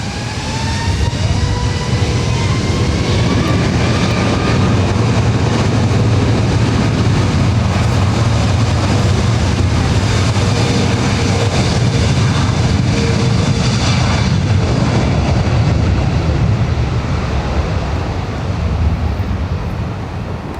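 Jet airliner engines spooling up to high thrust: a rising whine in the first few seconds over a heavy, steady rumble that eases off near the end.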